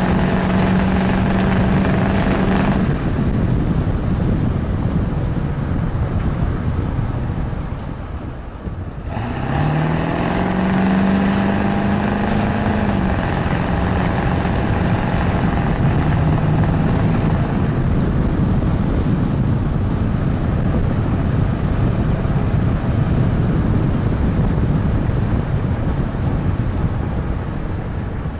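Ford 7.3 Powerstroke V8 turbo-diesel with a straight-piped exhaust, running loud under load. About a third of the way in the engine note falls away, then climbs quickly as it accelerates again and settles into a steady drone with road noise.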